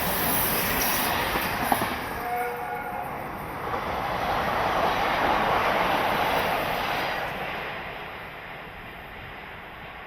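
A train passing at speed: the running and wheel noise swells, peaks midway and fades away toward the end. About two seconds in there is a short horn note.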